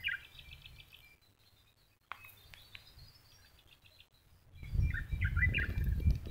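Small birds chirping and twittering in short runs, near the start and again from about five seconds in. From about four and a half seconds a louder low rumble comes in beneath the chirps.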